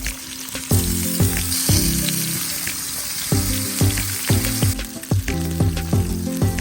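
Food sizzling in a hot pan, strongest from about a second in until near five seconds in, under background music with a steady run of notes.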